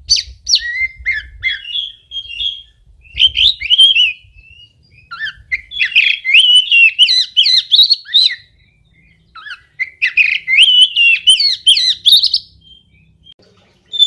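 Oriental magpie-robin (kacer) singing a loud, varied song of rapid whistles and chattering notes, delivered in four bursts with short pauses between them.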